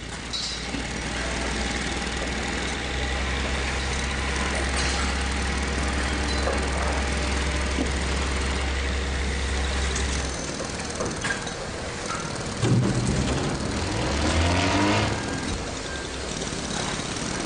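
Construction site sounds: heavy machinery with a steady deep engine rumble that stops about ten seconds in, scattered knocks, and then an engine revving up and down.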